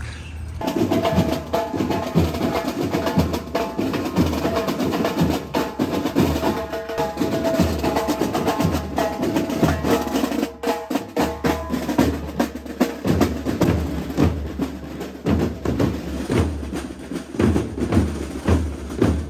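Parade drum band playing: drums and snare beating a fast, driving rhythm, with a held melody over the top.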